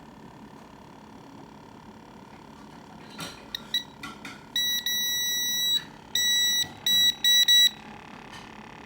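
Electronic beeping: two short pips, then a long beep of about a second, followed by a row of shorter beeps.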